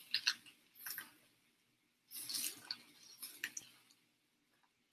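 Wet chewing and crunching of a mouthful of lettuce wrap with grilled beef and kimchi: crackly, smacking mouth sounds in two bouts about a second apart.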